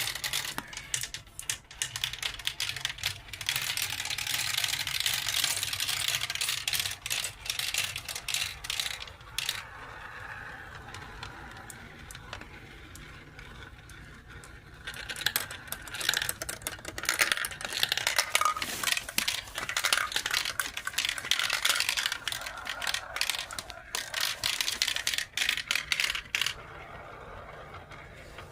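Marbles rolling and clattering along a marble-run track: a dense, busy rattle of small clicks, easing off for a few seconds about ten seconds in, then picking up again.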